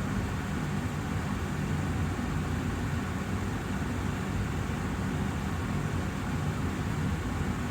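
Austin Air HealthMate air purifier's fan running steadily: an even rush of air with a low hum and no changes.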